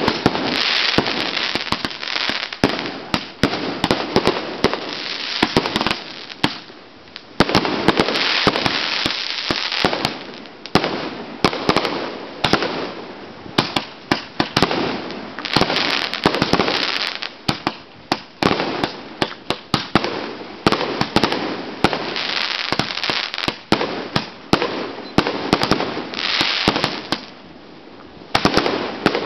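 Aerial fireworks bursting in rapid succession: many sharp bangs over continuous crackling and hiss, easing briefly about seven seconds in and again near the end.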